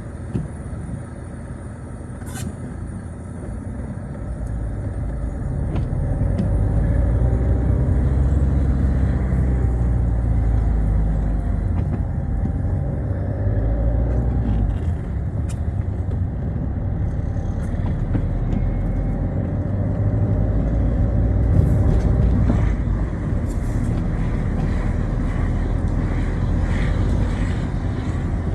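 Citroën Xsara driving on a rain-wet road: engine and tyre noise as a low, steady rumble that swells a few seconds in as the car picks up speed.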